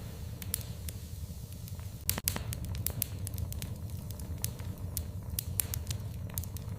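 Wood fire in a fireplace crackling: irregular sharp pops and snaps over a low steady rumble, with a loud burst of pops about two seconds in.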